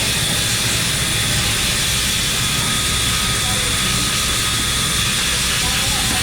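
Workshop machinery running steadily: a continuous noise with a constant high whine and a low hum.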